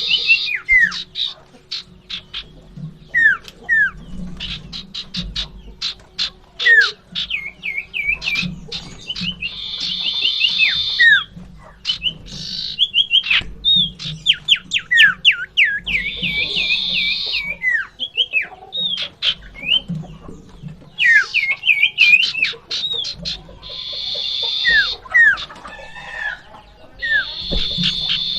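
Common iora (cipoh) giving fighting calls: harsh buzzing rasps of about a second, alternating with runs of quick down-slurred whistles and fast ticking notes, over and over.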